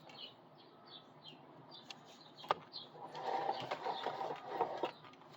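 Small birds chirping outside, a steady series of short high chirps. A sharp click comes about two and a half seconds in, then a louder, noisy stretch of about two seconds.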